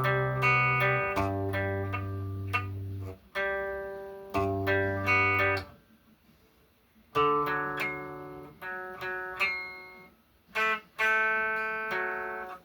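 Guitar chords played slowly and haltingly, each chord left to ring. Playing stops for about a second and a half partway through, then resumes with more chords.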